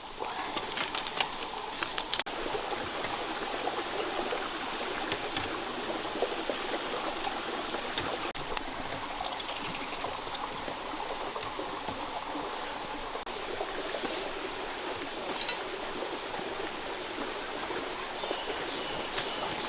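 Stream water flowing steadily with a continuous rushing noise, with a few faint clicks and knocks on top.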